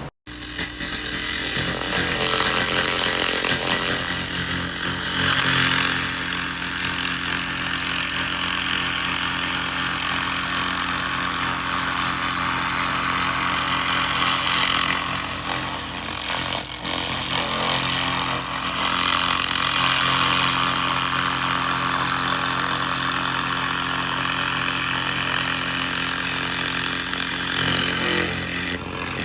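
2000 W laser rust remover at work on rusty metal: a steady hiss that swells and eases several times as the beam is worked over the surface, over the constant hum of the running laser unit.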